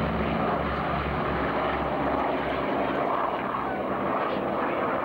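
North American P-51 Mustang's Rolls-Royce/Packard Merlin V12 propeller engine droning in flight, its deep drone dropping away a little over halfway through.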